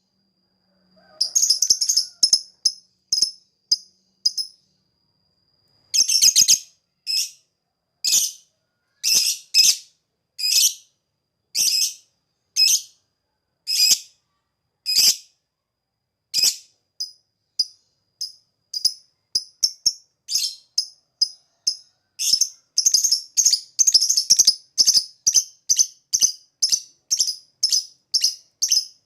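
Lovebird calling in short, sharp, high-pitched chirps separated by pauses, the calls coming faster and more evenly in the last third, about two a second.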